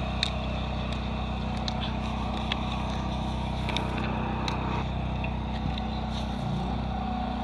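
Portable generator engine running steadily, with a brief dip in its pitch near the end before it settles slightly higher.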